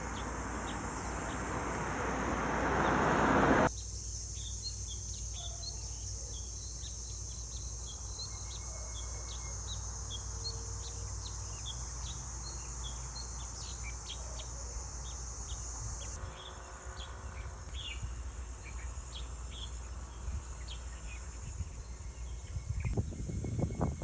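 Outdoor nature ambience: many short, high bird chirps over a steady, high insect drone. The first few seconds are covered by a rush of noise that swells and then cuts off suddenly, and a few knocks sound near the end.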